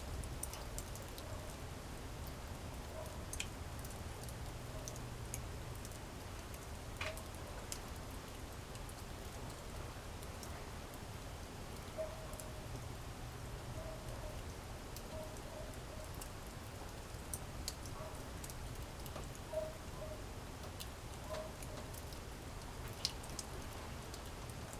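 Wood campfire crackling, with sparse sharp pops every second or two over a low steady rumble.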